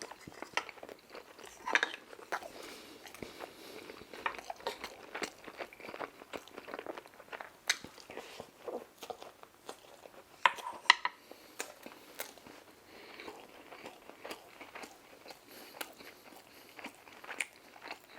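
Close-miked chewing and biting of crispy fried food, with irregular crunches and wet smacking clicks, the loudest crunches about ten and a half to eleven seconds in.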